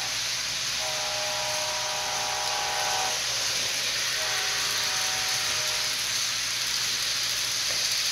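Walthers Mainline GE ES44 model locomotive's sound system blowing a multi-chime air horn, a long blast about a second in and a shorter one about four seconds in, over a steady hiss from the running locomotive at full throttle.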